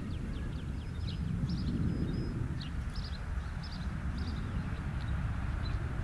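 Birds chirping, many short high notes scattered throughout, over a steady low rumbling noise.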